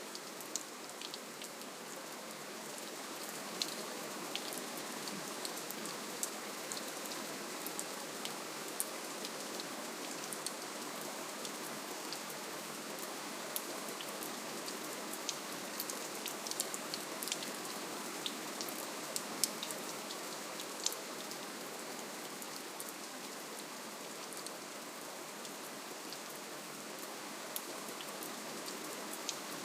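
Steady gentle rainfall, an even hiss with many small drop ticks scattered through it.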